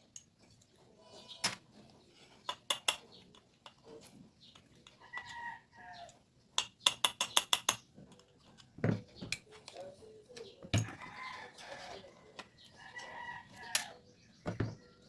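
Sharp clicks and taps from small parts and tools being handled on a carburetor rebuild, the loudest a quick run of about six clicks some seven seconds in, with a rooster crowing and chickens clucking in the background.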